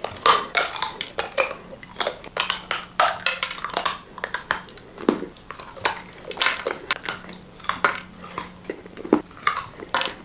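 A spoon clicking and scraping against a container of Nutella, many short irregular clicks in quick succession.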